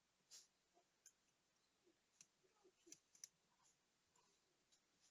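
Faint, scattered light clicks and taps, several over a few seconds, from small watch parts and tools being handled.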